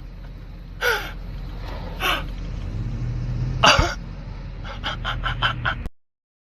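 A person gasps sharply three times over the steady low rumble of a car cabin, then makes a quick run of short breathy sounds. The audio cuts off abruptly near the end.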